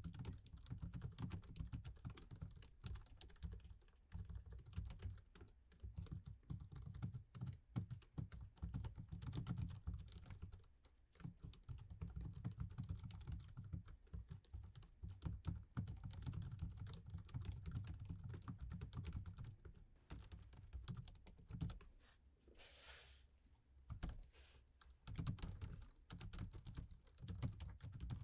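Laptop keyboard being typed on: a fast, continuous stream of soft key clicks, broken by a short pause with a brief swish about three quarters of the way through.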